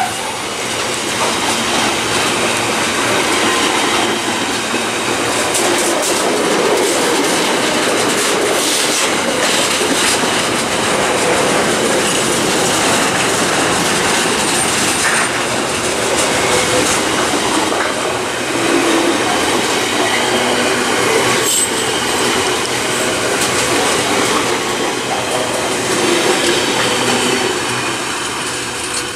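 Container freight train's loaded flat wagons rolling past at speed: a steady rumble of steel wheels on rail with clicks over the rail joints and occasional faint high wheel squeal, falling away near the end as the last wagons go by.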